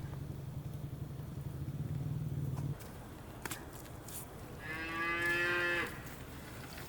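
Cattle mooing: a long, low moo that breaks off about two and a half seconds in, then a shorter, higher moo near the end.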